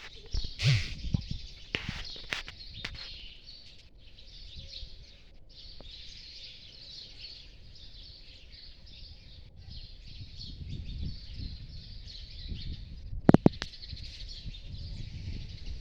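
Many small birds chirping at once in a dense, continuous chatter, with a few sharp knocks near the start and about 13 seconds in.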